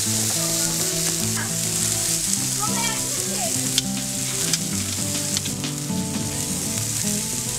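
Seasoned meat with herbs sizzling in a hot pan, a steady frying hiss with a few sharp pops and crackles.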